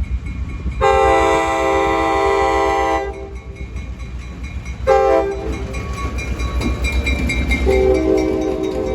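Diesel locomotive air horn sounding a long blast, a short toot about two seconds later, and another softer, longer blast near the end, over the steady rumble of the locomotive's engine.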